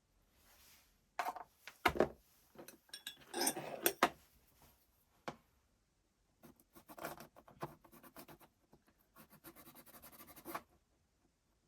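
Small hard parts being handled on a work surface: a few knocks and clinks, the loudest about two seconds in, then a stretch of rapid clicking and scraping that stops near the end.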